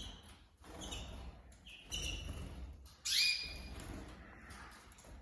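Canaries in a bird room chirping and calling, short high calls roughly once a second, the loudest about three seconds in.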